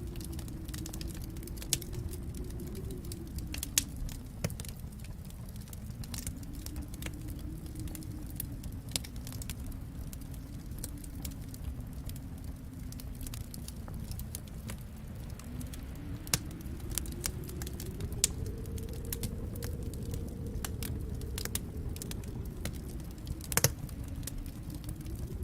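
Wood fire crackling in a fireplace, with scattered sharp pops, the loudest a double pop near the end, over a low steady rumble that slowly rises and falls in pitch.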